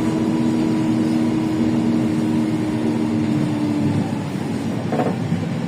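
LiAZ 5292.65 city bus with a Yuchai engine and Fast Gear gearbox, heard from inside the cabin while under way: a steady drivetrain hum that falls slightly in pitch and drops away about four seconds in, with a brief click about five seconds in.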